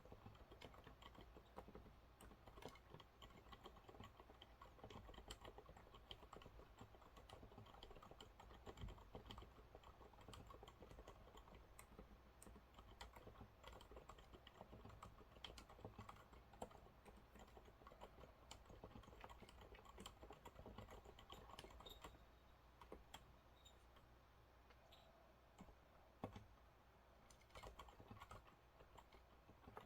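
Quiet, steady typing on a Monsgeek MG108W full-size keyboard with TTC silent brown switches: soft, muted keystrokes in a fast, uneven stream. The typing thins out for a few seconds past the middle, with one louder key press near the end.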